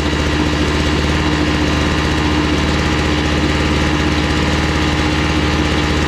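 Portable generator's small gasoline engine running steadily at a constant speed, with one strong steady hum tone.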